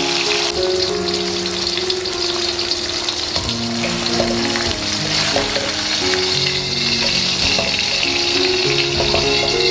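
Food frying in a stainless steel wok, a steady sizzle with a few small clicks of stirring, under soft background music with held notes.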